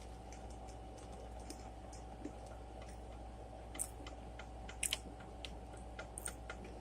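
Faint sounds of someone eating: soft chewing with scattered sharp clicks, a few louder ones in the second half.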